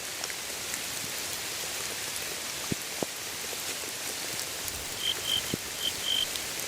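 Steady rain falling, with a few heavier drops striking close by as sharp ticks. Near the end come four short, high chirps.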